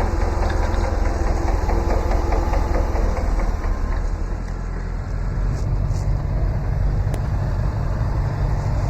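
Tractor engine running steadily at idle, with a light, fast ticking in the first few seconds and a deeper note from about five seconds in.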